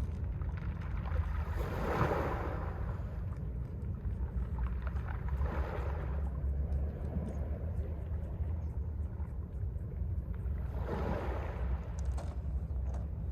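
Mediterranean sea waves breaking and washing up a pebble beach, three surges a few seconds apart with faint clicking between them, over a steady low wind rumble on the microphone.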